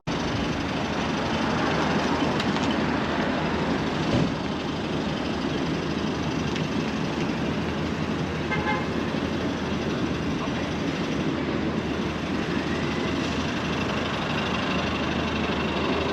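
Steady street traffic and engine noise, with a brief vehicle horn toot about eight and a half seconds in.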